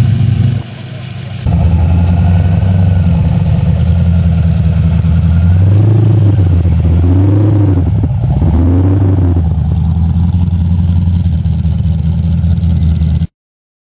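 Supercharged V8 of a VK Holden Commodore running, with a heavy, steady low note. It drops quieter for about a second near the start, is revved three times in quick succession in the middle, then settles back and cuts off abruptly near the end.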